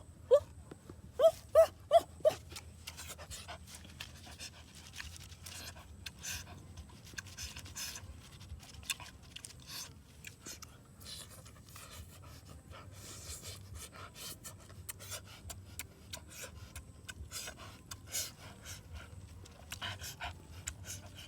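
Several short rising squeaks in quick succession at the start, then irregular clicks and smacks of someone chewing and eating food.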